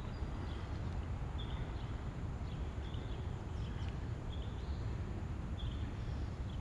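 A bird repeating a short high chirp about once a second, over steady light rain and a low rumble.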